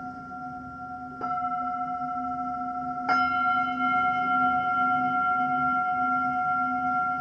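Singing bowls ringing with long sustained, overlapping tones and a low wavering hum. A bowl is struck about a second in, and another is struck a few seconds in, each strike adding new ringing tones that hold on.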